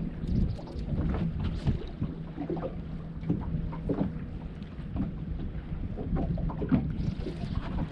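Wind rumbling on the microphone over water, with irregular short knocks and a faint low steady hum.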